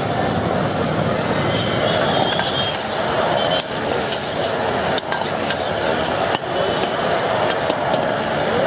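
Wok cooking over a gas burner: a steady loud roar, with a few sharp metal clanks of the ladle against the wok, at about three and a half, five and six and a half seconds in.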